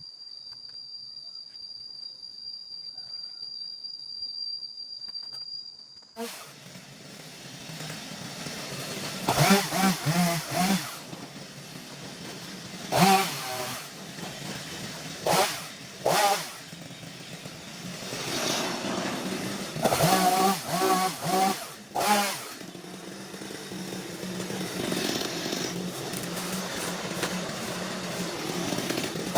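Small petrol engine running, revved up in repeated bursts and dropping back between them, starting about six seconds in after a quiet stretch that holds only a faint steady high tone.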